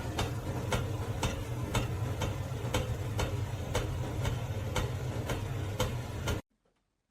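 Regular ticking, about two sharp clicks a second, over a steady low hum, stopping abruptly about six seconds in.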